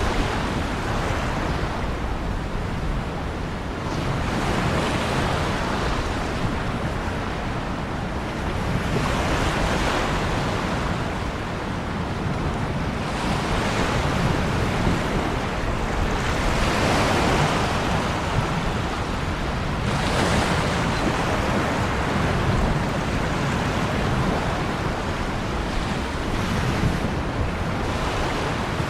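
Ocean waves breaking on the shore, the surf swelling and washing back every few seconds over a constant low rumble.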